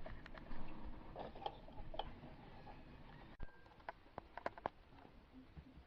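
Small scattered clicks and light taps from hands handling a refrigerator temperature control's thin metal sensing line and its plastic parts. A few sharper clicks come about three and a half to four and a half seconds in.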